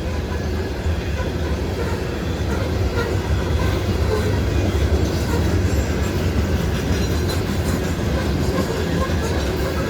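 CSX freight grain train's cars rolling past a grade crossing: a steady rumble of wheels on rail with some clickety-clack, heard from inside a vehicle.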